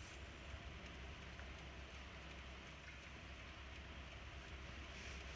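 Steady low outdoor background noise: an even hiss with a low rumble underneath, with no distinct event.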